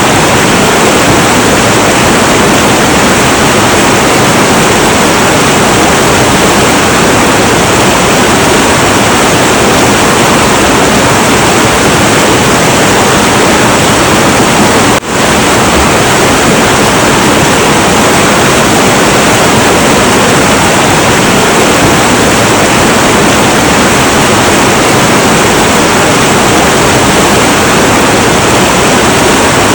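Heavy, turbulent river water rushing in a steady, loud roar, with a momentary dip in level about halfway through.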